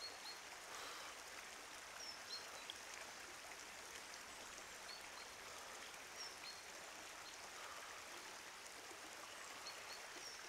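Faint outdoor ambience: a steady soft wash like running water, with small high bird chirps every second or so.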